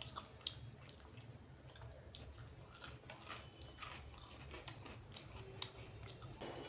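A person chewing and biting food, close to the microphone: scattered small wet clicks and smacks of mouth sounds.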